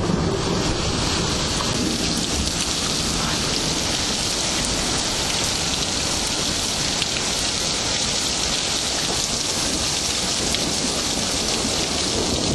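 Steady heavy rain falling, a dense, even hiss of many drops with no pauses.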